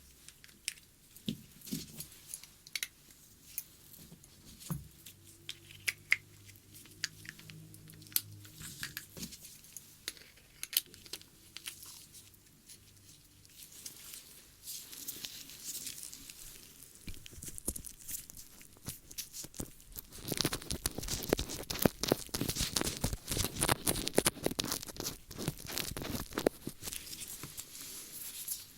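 Close-miked ASMR ear-cleaning sounds: scattered crackles and scratches at first, then dense, louder scratching and crackling from about twenty seconds in.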